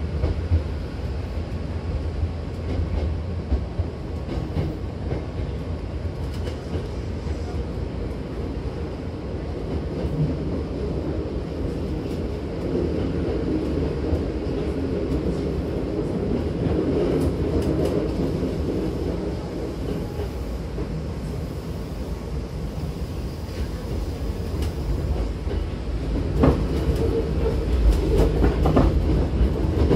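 Hankyu Railway electric commuter train running, heard inside the passenger car: a steady low rumble of wheels on track. Near the end it grows louder, with sharp clacks of the wheels over rail joints.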